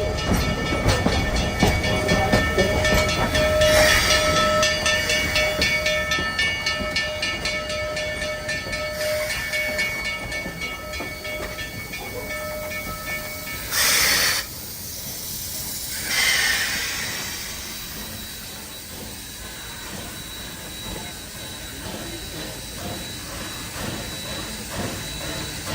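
Narrow-gauge steam train departing: running noise and the fast clatter of the cars over the rail joints, with a steady ringing tone over the first half. About halfway through come two short, sharp bursts of steam hiss, after which the train sound dies down to a quieter rumble.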